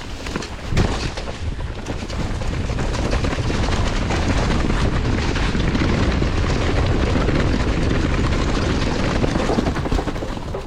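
Wind buffeting the microphone over the rumble and rattle of a mountain bike riding down rough, muddy ground, with frequent knocks from the bike. It grows louder about two seconds in.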